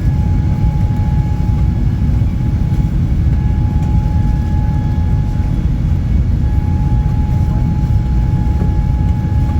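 Airbus A380 cabin noise heard from a passenger seat: a steady low rumble with a thin steady whine above it, even in level throughout.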